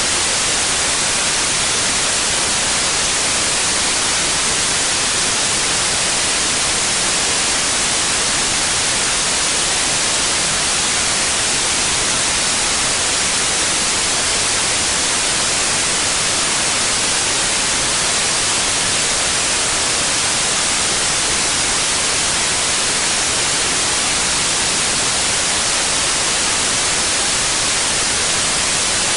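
Steady white noise: a continuous, even hiss with no change.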